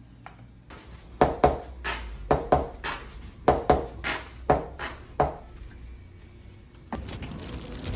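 A knife chopping through a gimbap roll onto a cutting board: about a dozen sharp knocks at uneven spacing over four seconds. Near the end the sound cuts suddenly to a steady hiss.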